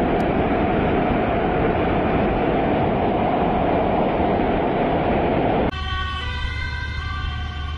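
Loud, steady rushing of water. About six seconds in, it cuts to a quieter vehicle sound: several steady held tones over a low engine hum.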